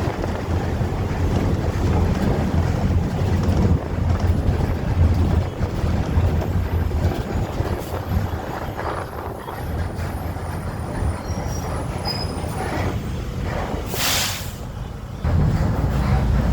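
Wind buffeting the microphone over steady road traffic, with a short hiss about fourteen seconds in.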